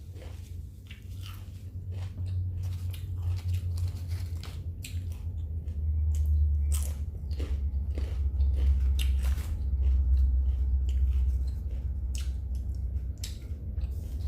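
Close-miked biting and chewing of a steak and cheese sub sandwich: crunchy bites, with many small wet mouth clicks and crackles as it is chewed.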